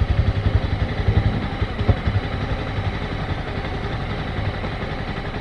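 Motorcycle engine running at low speed, with an uneven pulsing throb for the first couple of seconds that then settles to a steadier run.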